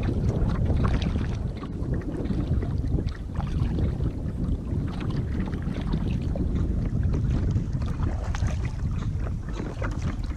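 Strong wind buffeting the microphone as a low rumble, with small splashes and water lapping at a kayak on the move.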